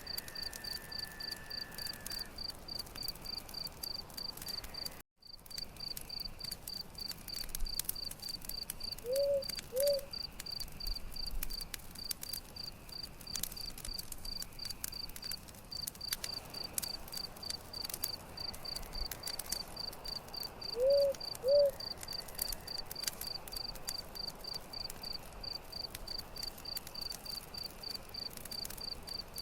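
Crickets chirping in a steady, even rhythm over a crackling campfire. A short two-note call sounds twice, about nine seconds in and again about twenty-one seconds in. The sound cuts out for a split second about five seconds in.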